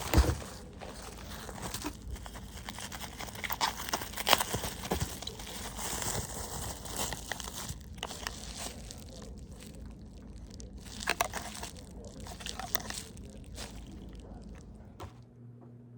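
Irregular crinkling, rustling and clicking handling noises, with a few sharper knocks. Near the end they stop and give way to a quiet steady low hum.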